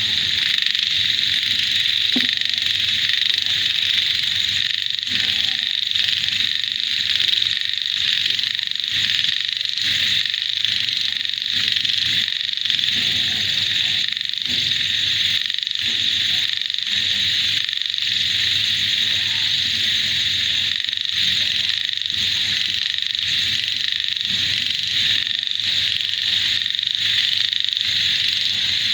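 A dense chorus of many frogs calling together: a steady, high-pitched wall of overlapping calls, finely pulsing all the way through.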